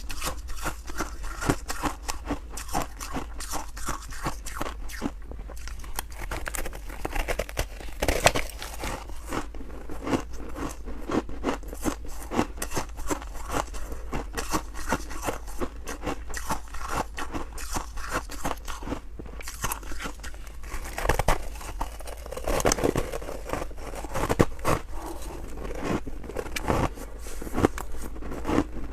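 Freezer frost being bitten and chewed close to the microphone: a steady run of crisp, irregular crunches and crackles, with a few louder bites along the way.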